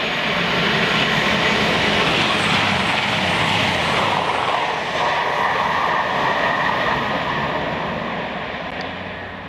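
Class 222 Meridian diesel multiple unit running through the station at speed. The rush of wheels and underfloor diesel engines builds, stays loud as the carriages pass close by, then fades as the train draws away.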